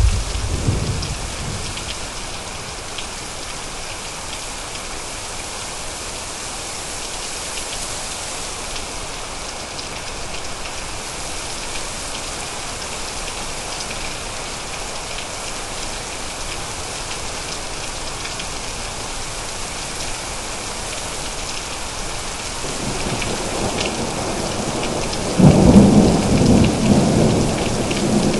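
Thunderstorm: steady rain hissing, with a rumble of thunder dying away at the start. Near the end a second roll of thunder builds and breaks into a loud peal about three seconds before the end.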